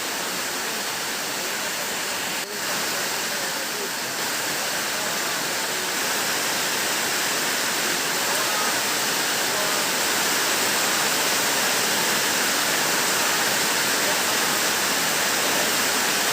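Steady rush of heavy rain, with a brief dip about two and a half seconds in, after which it is slightly louder.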